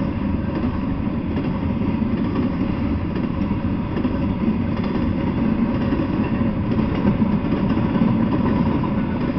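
Double-stack intermodal freight train passing at speed: a steady, even rumble that keeps up without a break, heaviest in the low end.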